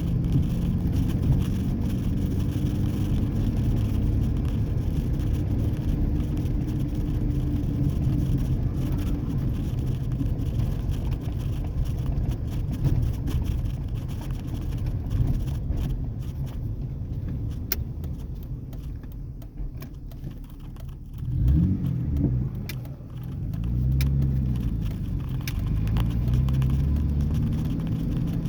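Exhaust of a muffler-deleted 2003 Ford Ranger's 4.0-litre V6, catalytic converters still fitted, running steadily under way. About twenty seconds in the engine eases off, then rises and falls in speed twice in quick succession before settling back to a steady pull.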